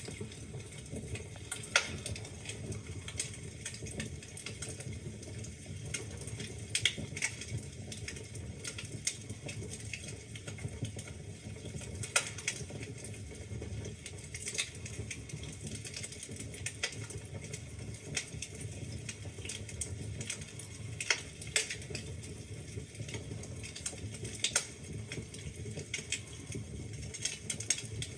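Wood fire burning in a fireplace: a steady low rumble of flames under constant small crackles, with a few louder, sharper pops from the burning logs.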